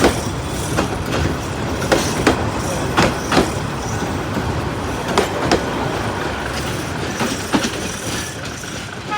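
Train running along the track: a steady rumble with wheels clicking over rail joints, the clicks often coming in pairs.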